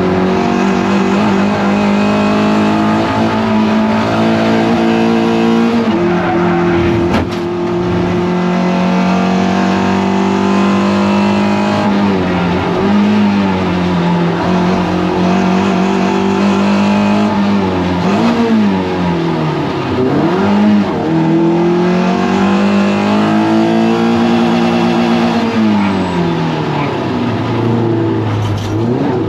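Toyota MR2 race car engine running hard at high revs. The pitch holds, then drops sharply with gear changes, with quick rev blips on downshifts as it brakes for corners.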